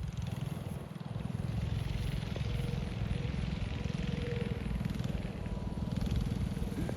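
Mini bike's Predator 212 single-cylinder engine running steadily at a fairly even speed.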